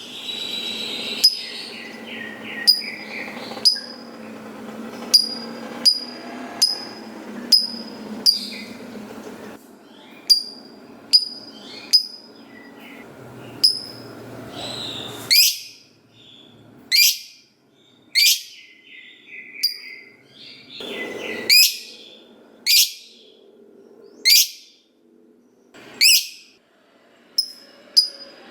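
Lovebird in full song: a quick run of sharp, high chirps, about one or two a second, over a busy chattering layer. From about halfway on, the calls turn into louder, piercing shrieks that sweep downward, with short warbling trills between them.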